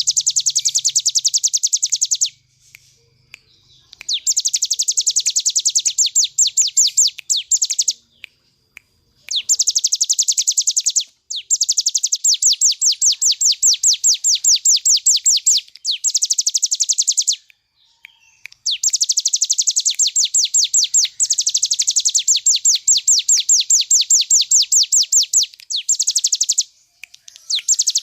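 Ciblek gunung (a mountain prinia) singing its rapid 'ngebren' song: long, fast trills of evenly repeated high notes, each run lasting a few seconds, broken by short pauses.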